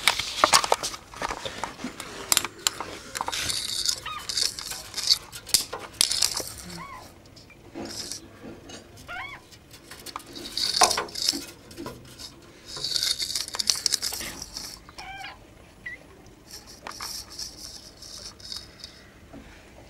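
Short squeaky chirps that bend up and down in pitch, a few seconds apart, among scraping and clattering, the strange noises put down to a pet turtle.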